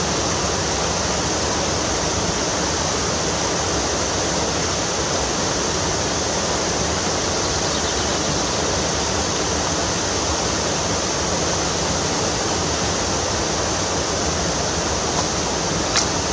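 Steady rush of fast-flowing stream water, an even hiss with no change throughout.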